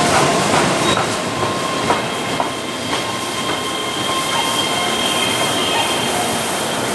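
Keihan 10000-series electric commuter train running past on curved track: a steady high squeal of wheels on the curve, with scattered clicks from the wheels over rail joints.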